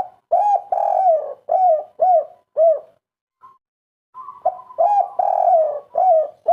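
Spotted dove (tekukur / derkuku) singing its 'kuk 3' song: twice, a soft rolling lead-in and a long coo followed by three short coos, with a pause of over a second between the two phrases.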